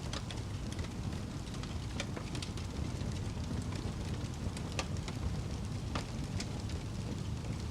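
Wood fire crackling: a steady low noise of burning with scattered sharp snaps, roughly one a second.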